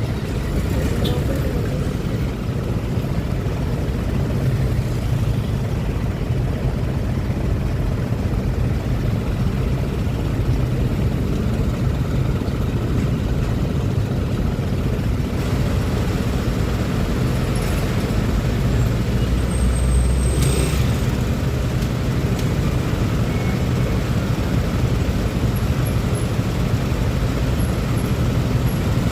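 Steady road noise of a Honda Click 125i scooter ride through city traffic: low engine and wind rumble with surrounding traffic, swelling briefly about twenty seconds in.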